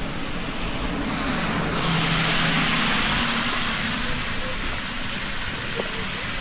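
A car passing on a wet road: tyre hiss swells for about two seconds and fades, over a steady background hiss.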